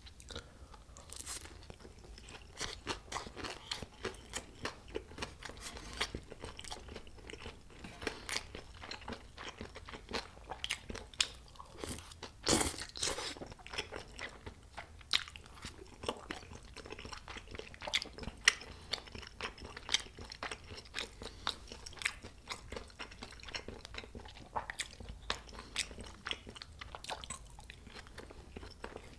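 Close-miked chewing of crispy Korean fried snacks (twigim): a run of small crunches and crackles, with one louder crunch about twelve seconds in.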